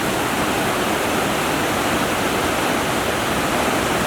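Steady rush of running water, like a mountain stream or small waterfall, holding an even level throughout.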